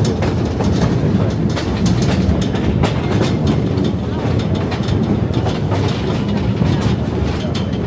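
Passenger train cars rolling along the track: a steady low rumble with irregular clicks and knocks from the wheels and couplings.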